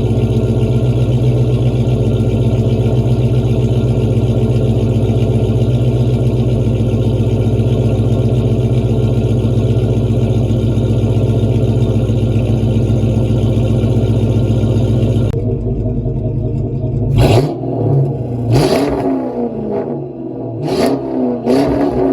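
Dodge Charger's Hemi V8, catless, through SLP Loudmouth 1 single-stage mufflers, idling steadily. About 15 s in the idle note drops, and the engine is then blipped four times, each rev rising and falling quickly.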